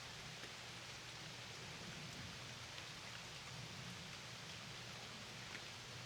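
Steady rain falling on a lake, a soft even hiss with a few individual drops ticking now and then.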